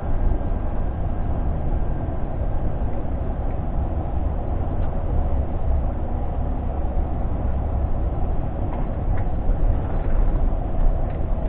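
Scania G460 truck's 13-litre straight-six diesel and road noise heard from inside the cab while driving: a steady, deep rumble, with a few faint rattles.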